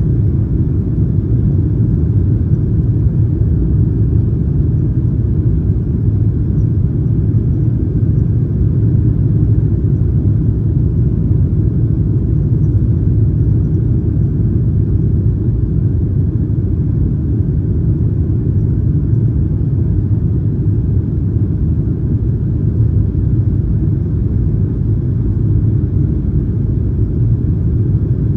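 Steady low rumble inside the cabin of a Boeing 737-900ER airliner: engine and airflow noise heard from an economy seat, unchanging throughout.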